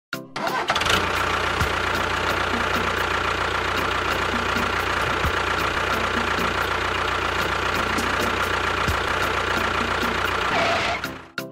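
A motor or engine running steadily, with a low hum and a thin whine over it. It starts about half a second in and dies away near the end.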